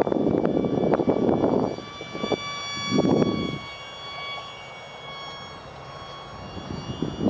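High-pitched whine of an ultra-micro RC jet's 8 mm brushed motor spinning its direct-drive propeller in flight, holding a nearly steady pitch. Loud low rumbling bursts cut in during the first two seconds and again about three seconds in.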